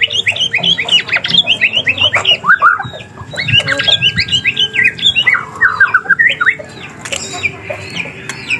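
White-rumped shama singing a loud, fast, varied song: dense runs of quick sweeping whistled notes mixed with harsh calls, with one longer held whistle about midway.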